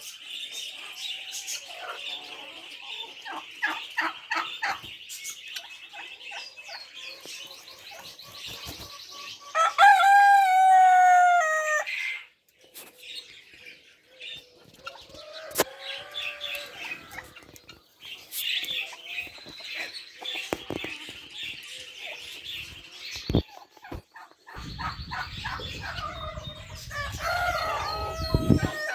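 A rooster crowing loudly about ten seconds in and again near the end, over continual clucking and short chirps from a flock of poultry. A low rumble joins in for the last few seconds.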